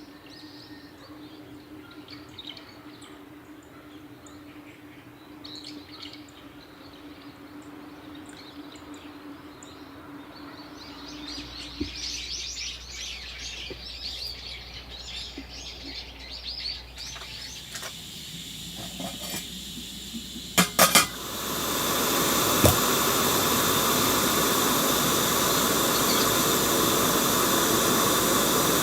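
Quiet outdoor background with faint bird chirps and a stretch of crackling, then a few sharp clicks about twenty seconds in, followed by a loud, steady hiss that lasts to the end.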